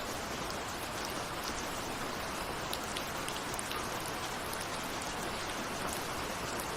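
Steady rain, with many small drops ticking sharply against a window pane.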